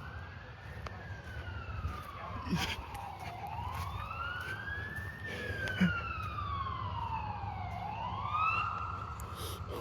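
Ambulance siren sounding a slow wail, its pitch rising and falling about twice, over a steady low rumble.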